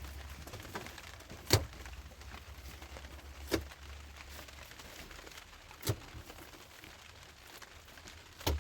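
Four sharp knocks, about two seconds apart, over a faint low hum: hard objects striking during hand work on a fireplace.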